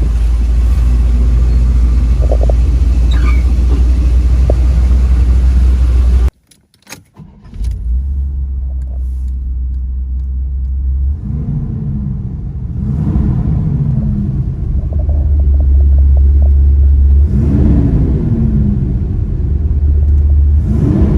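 Chevrolet Corvette V8 running with a steady low rumble; the sound cuts out abruptly about six seconds in and comes back after a second or so. The throttle is then blipped four times, each rev rising quickly and falling back slowly.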